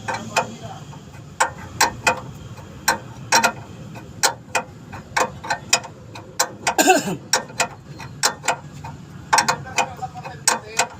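A string of sharp clicks, irregularly spaced at about two to three a second, with a brief voice about seven seconds in.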